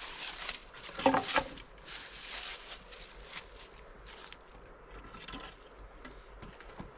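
Irregular rustling and crunching, loudest about a second in.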